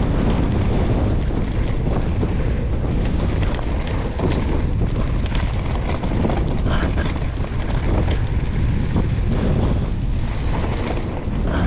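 Strong wind buffeting the microphone: a steady, loud low rumble with scattered short clicks and rattles over it.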